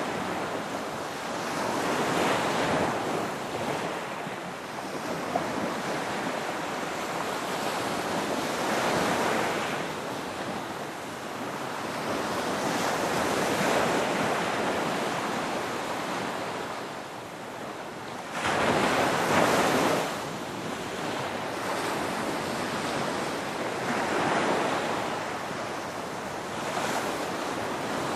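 Ocean waves breaking and washing in, the surf swelling and easing every few seconds, with one louder break about two-thirds of the way through.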